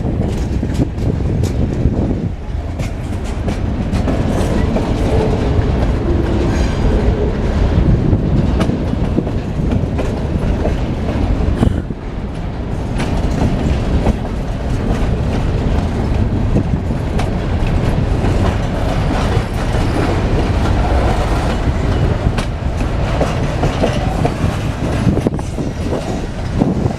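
Train passing close by, its railroad cars rolling past with a steady heavy rumble and the wheels clicking over the rail joints.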